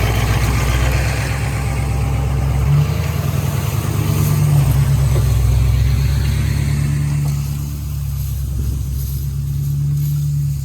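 A farm vehicle's engine running steadily as it drives off with a load of hay bales, its pitch stepping up slightly about three seconds in.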